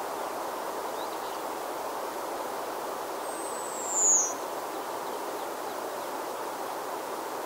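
Nature ambience: a steady rushing background noise, over which a bird gives one high, falling whistle about four seconds in.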